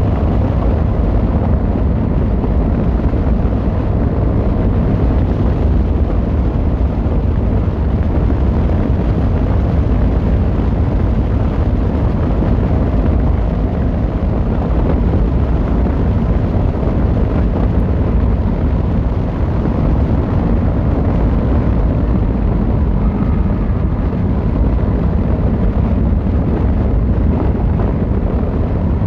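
Yamaha XVZ1300 Royal Star's V4 engine and exhaust running steadily while riding, with no rises or drops in revs, mixed with wind noise on the microphone.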